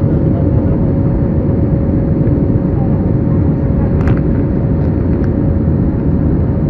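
Airliner in flight heard from inside the cabin: a steady roar of engines and rushing air with a constant hum, and a faint click about four seconds in.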